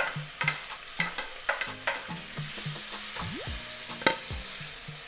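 Seasonings frying with a steady sizzle in a cooking pot, while a spoon stirs and clicks against the pot about two or three times a second.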